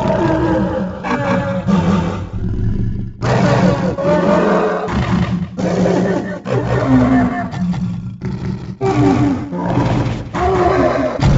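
Burrunjor creature sound effects: a string of about ten dinosaur-like roars and growls, each under two seconds and gliding in pitch over a deep rumble, with short breaks between them.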